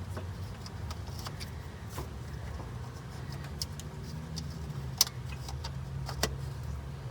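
Scattered sharp clicks and taps of hands and tools working in a truck's engine bay, over a steady low hum. The loudest clicks come about five seconds in and again about a second later.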